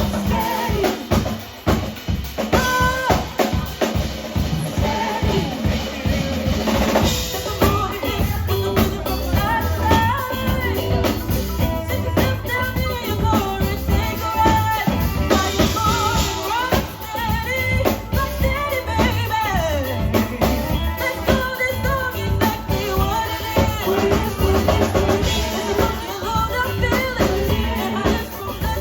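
Live band playing, with the drum kit to the fore: steady kick and snare hits with rimshots, over a bass line and melodic parts.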